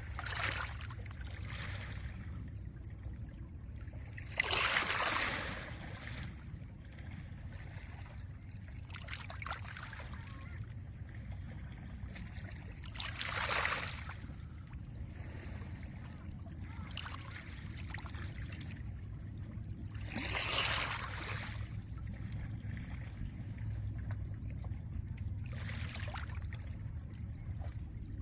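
Small lake waves washing onto a pebble shore, each swell hissing over the stones for about a second every few seconds, the strongest about five seconds in. Under them runs a steady low rumble of wind and water.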